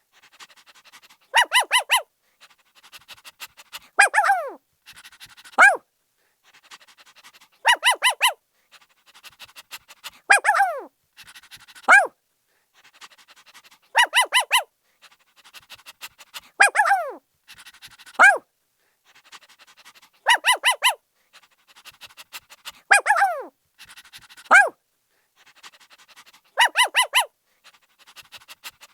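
Puppy barking in clusters of quick high yips, each followed by a falling yelp and a short single bark, with faint panting between. The same pattern repeats about every six seconds, like a loop.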